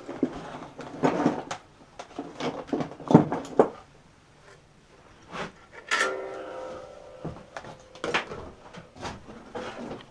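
Irregular clicks, knocks and clatter of tools and small parts being picked up and set down on a workbench. About six seconds in there is a short squeak or whine that holds one pitch for about a second and a half.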